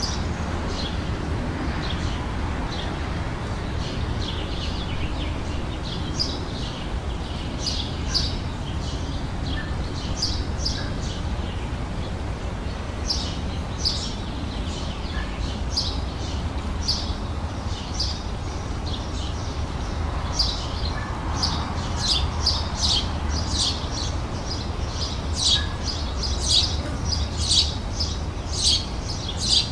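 Small songbirds chirping and singing in short, high, repeated calls, growing busier and louder over the last ten seconds. A steady low rumble runs underneath.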